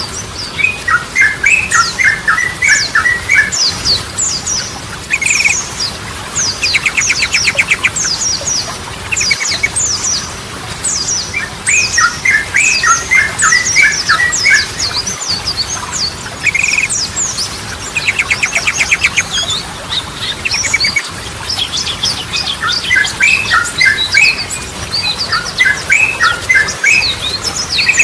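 Sooty-headed bulbuls singing: repeated short phrases of quick warbled notes, twice broken by a fast rattling trill, over a steady stream of high, thin chirps.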